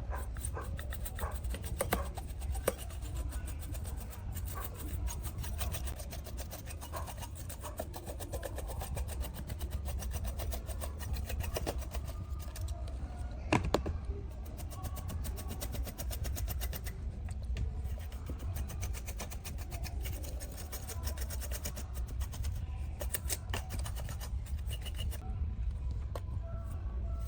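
Continuous scraping and rubbing from hand work on parts, with a few sharp knocks, the loudest about halfway through, over a steady low hum.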